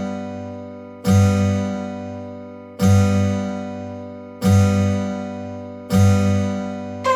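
Background music of slow strummed chords on a plucked string instrument, each chord ringing out and fading before the next, about every second and a half.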